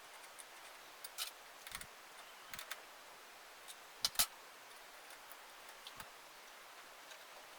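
Scattered light clicks and taps of small objects being handled, with a sharp double click about four seconds in, the loudest.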